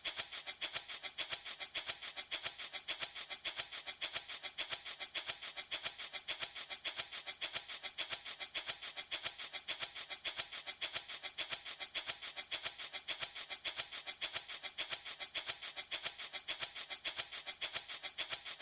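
Handmade baby rattle shaken steadily in a fast, even rhythm, its beads or pellets giving a dry, high rattle with each stroke.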